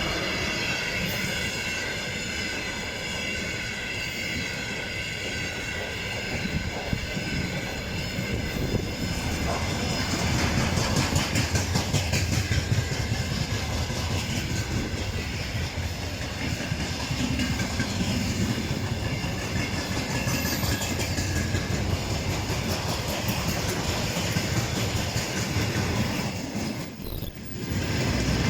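A train running past, with a steady rumble and wheels clicking over the rail joints. Several steady high tones ring over it for about the first nine seconds, then fade, and the clatter grows louder from about ten seconds in.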